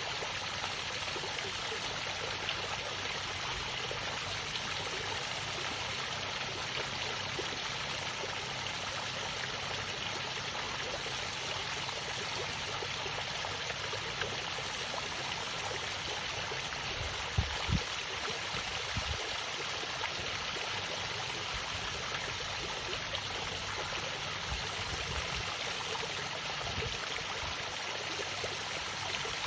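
Poolside fountain splashing: a steady, unbroken rush of falling water, with a few brief low thumps a little past halfway.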